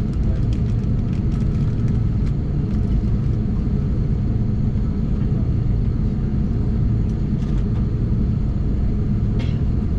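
Steady low rumble of cabin noise inside an Airbus A330-300 airliner on the ground before takeoff, with a few light clicks and taps.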